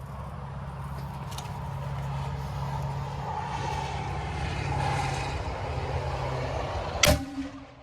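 A motor vehicle's engine running steadily, growing louder over several seconds, then one sharp bang about seven seconds in.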